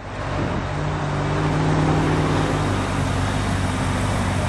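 2010 Ferrari California's 4.3-litre V8 idling steadily, heard from behind the car near its exhaust tips.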